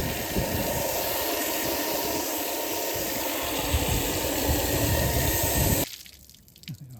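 Water spray hissing steadily against a big-block Chevy engine block as its loose debris is washed out, cutting off suddenly near the end.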